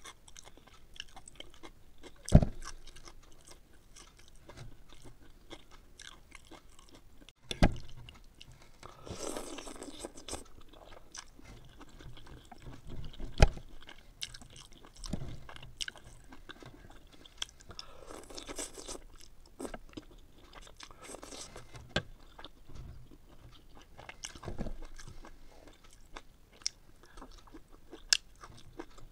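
Close-up chewing and crunching of a person eating noodle soup with broccoli and leafy greens, with many small mouth clicks. Three sharp knocks stand out, the loudest a couple of seconds in and again near the middle, and a few short rushes of noise come in between.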